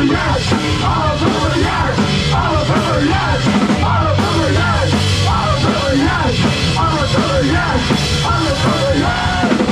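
Live rock band playing, with drum kit and guitars under sung and yelled vocals. The vocals stop near the end.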